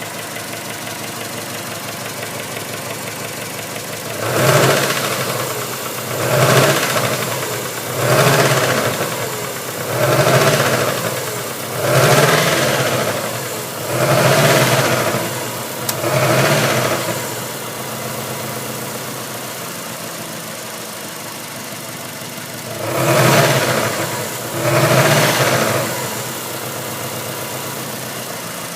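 Subaru EJ16E 1.6-litre flat-four engine idling, then revved in seven short blips about two seconds apart. It settles back to idle, then is blipped twice more. The engine has a knock.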